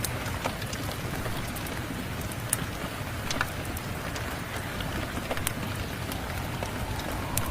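Steady rain falling together with a wood fire crackling, its sharp pops scattered through the rain, the clearest about two and a half seconds in and again near the end.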